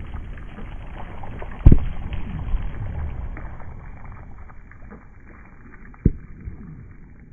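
Fireworks going off: a loud bang about a second and a half in and another near the end, over a low rumble of smaller cracks and pops that fades away.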